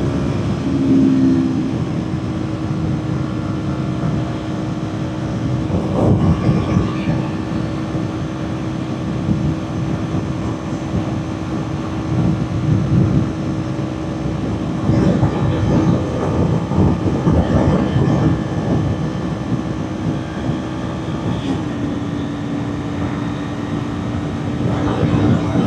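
Kawasaki Ninja 400's parallel-twin engine running at a steady high-speed cruise, one held note, under heavy buffeting wind noise; the engine note dips a little near the end.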